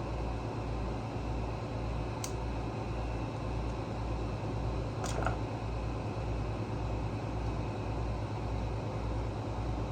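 Steady low mechanical hum that pulses evenly about twice a second, with two light clicks, one about two seconds in and one about five seconds in.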